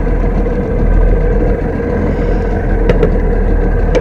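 Boat motor running steadily while trolling, a dense low rumble with a steady hum, and a few faint clicks about three seconds in.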